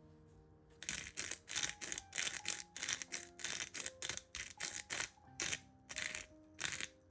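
A quick, uneven run of short crisp scraping or rustling strokes, about two to three a second, starting about a second in and stopping just before the end, over soft background music.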